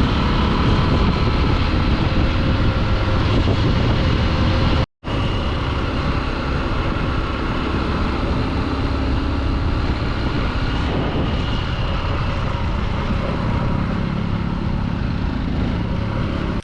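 Honda XR150 motorcycle engine running at a steady cruising speed while riding, with wind rumbling heavily on the microphone. The sound drops out for an instant about five seconds in.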